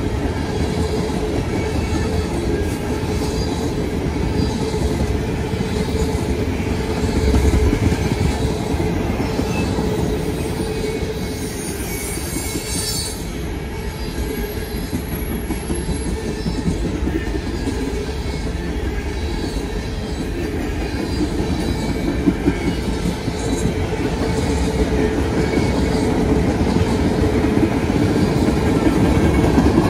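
Freight cars of a long manifest train, tank cars and refrigerated boxcars, rolling past at speed: a steady rumble and clatter of steel wheels on the rails, with a steady wheel squeal.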